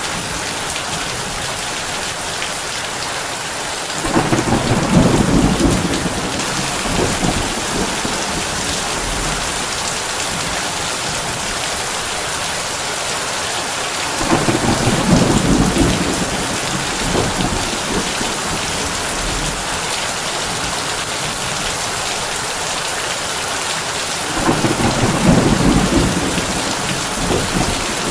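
Heavy rain drumming steadily on a tin roof, with three low rumbles of thunder about ten seconds apart, each lasting two to three seconds.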